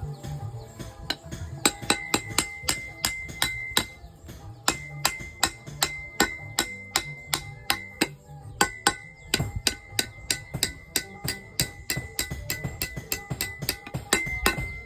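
Hammer striking metal on an anvil in a steady rhythm, about three blows a second, each blow ringing out, as steel is forged into a large fishing hook.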